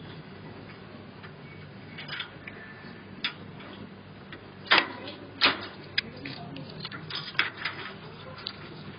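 Budgies pecking and clicking at their toys and cage: scattered sharp taps and clicks, two louder ones a little past the middle, then a quick run of smaller ones.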